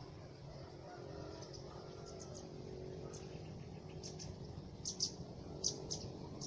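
Short, high bird chirps, singly and in quick twos and threes, the loudest about five seconds in, over a steady low hum.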